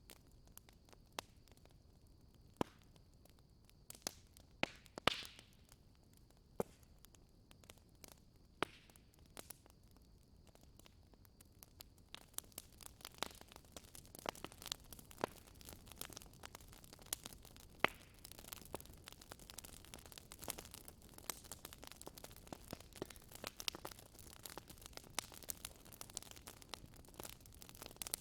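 Wood fire in a fireplace crackling and popping: scattered sharp pops for the first twelve seconds or so, then a denser, steadier crackle with a soft hiss.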